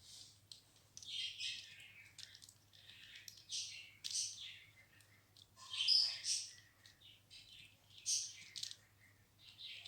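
Ringneck parrot chirping and chattering in a string of short, high calls, the loudest about six seconds in.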